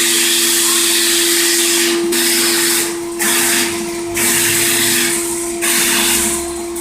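High-pressure washer jet hissing in a series of sprays, with short breaks about two, three, four and five and a half seconds in, over a steady machine hum that never stops.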